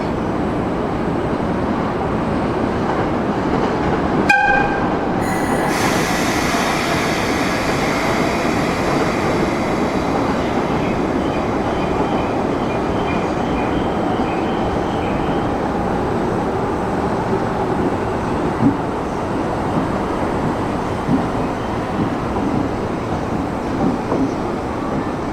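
A very short toot of an EF65 electric locomotive's AW-2 air whistle about four seconds in. The locomotive and its train then run past with steady rail rumble and wheel squeal that sets in just after the toot.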